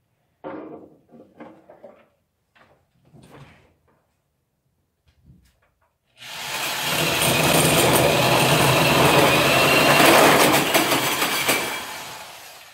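A few light knocks and clatters of parts being handled, then a power tool starts about six seconds in and runs loud and steady for about five seconds with a faint whine, fading out near the end.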